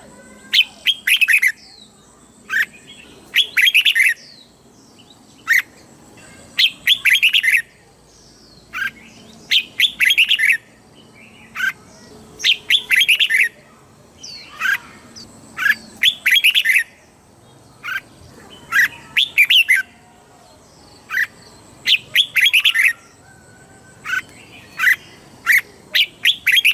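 Red-whiskered bulbul singing: short, bright warbled phrases repeated every second or two, over a faint steady high-pitched whine.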